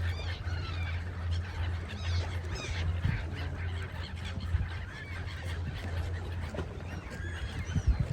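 A flock of seagulls calling, many short overlapping cries, over a low steady rumble.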